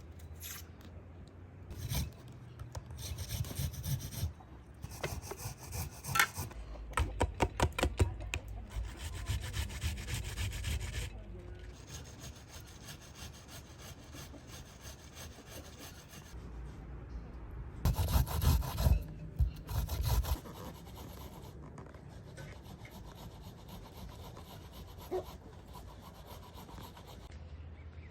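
Rhythmic rubbing or scraping strokes, several a second. They come in a long bout from about two to eleven seconds in and a shorter one near eighteen to twenty seconds.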